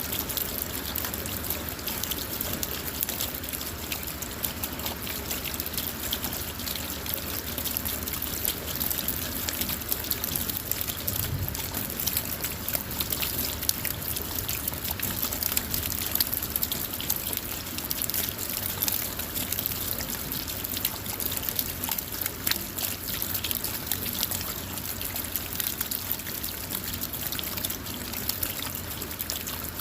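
Steady rain falling on a car, with many individual drops ticking against the body and glass over a continuous hiss of rainfall.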